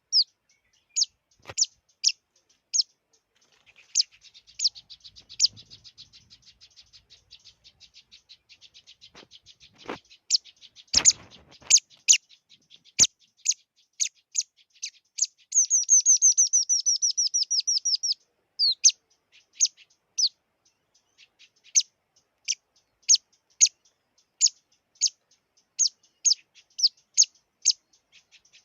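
A small songbird, the Vietnamese 'chi chi' bird, calling with short sharp high chirps about once or twice a second. About halfway through it breaks into a fast run of quick notes, and a few brief knocks sound in between.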